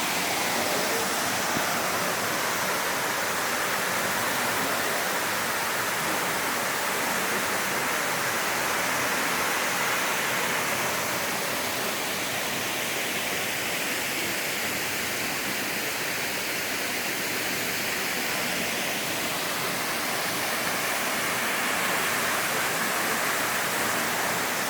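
A tall waterfall, about 70 metres high, plunging into its pool: a steady, loud rush of falling water.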